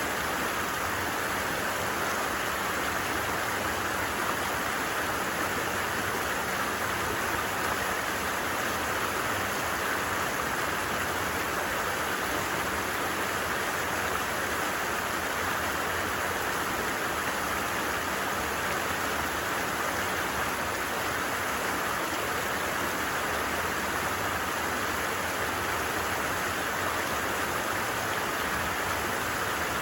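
Stream babbling steadily: an even, unbroken rush of flowing water.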